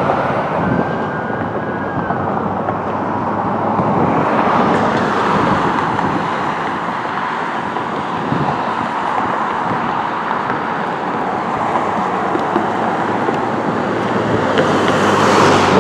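Fire engine responding with its siren sounding over heavy road and engine noise, loudest near the end.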